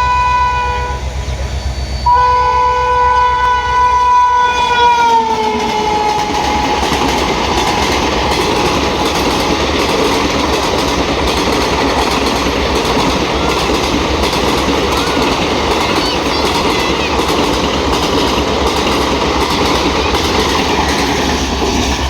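Indian Railways locomotive horn sounding two long blasts; the second drops in pitch as the locomotive passes close by. Then the express's coaches run past with a steady, loud rushing rumble of wheels on rails.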